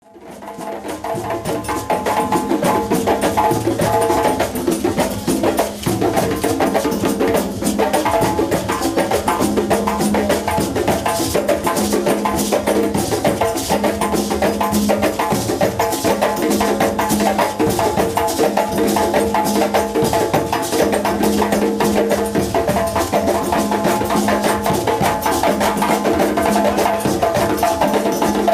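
Live drumming by a percussion group, playing a fast, steady rhythm of dense strokes with repeating pitched notes. It fades in over the first second or two.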